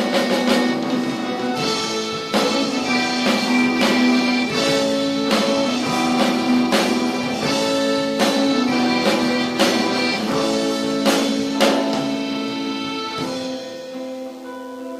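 A rock band playing live, instrumental: long held keyboard-like notes moving through a melody, with a drum or cymbal hit about once a second. Near the end the drums stop and the held notes ring on, fading.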